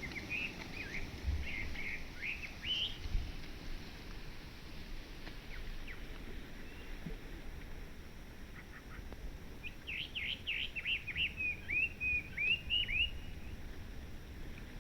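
Chinese hwamei (hwamei laughingthrush) singing: two bursts of quick, varied whistled notes, a short one at the start and a longer, louder run about ten seconds in.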